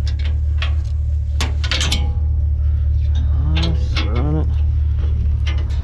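Steady low rumble of an idling truck engine, with a few sharp clicks and knocks in the first two seconds and a brief voice-like sound about halfway through.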